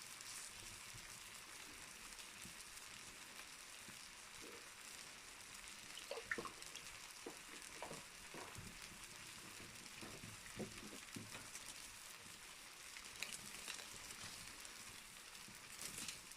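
Wood fire burning in a fireplace, crackling softly over a steady hiss, with scattered sharp pops that come thickest in the middle.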